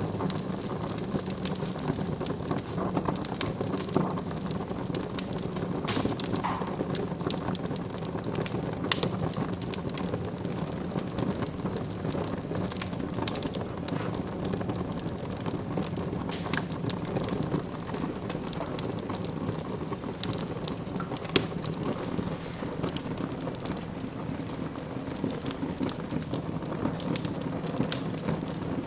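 Fire burning in a fireplace: steady crackling with frequent sharp pops over an even, low flame noise.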